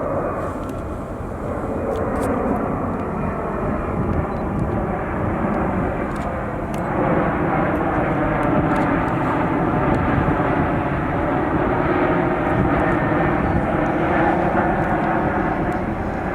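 Jet airliner's engines running steadily as the plane passes, getting louder about seven seconds in.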